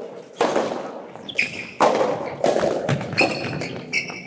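Soft tennis rally: the rubber ball struck by rackets about every one and a half seconds, each hit echoing in the indoor hall, with short high squeaks of shoes on the court between hits.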